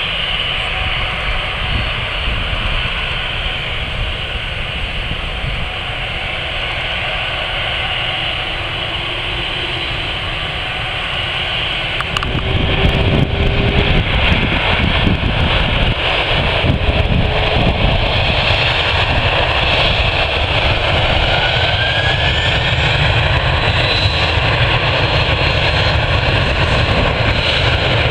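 Jet airliner engines: a steady rumble and hiss that grows sharply louder about twelve seconds in and then stays loud, typical of takeoff power.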